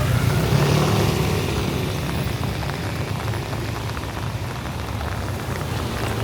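Steady rain falling, with the low rumble of street traffic under it; a vehicle's sound swells in the first second or so, then settles into a steady wash of rain and engine noise.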